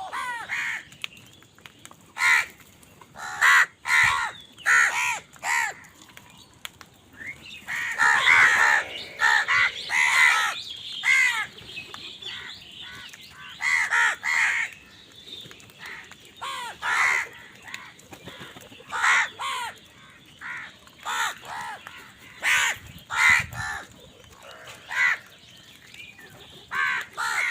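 Crows cawing repeatedly: harsh calls in short runs, with several calls overlapping in a dense burst about a third of the way through.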